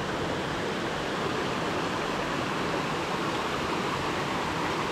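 Steady rush of a stream's flowing water at a waterfall, an even unbroken noise.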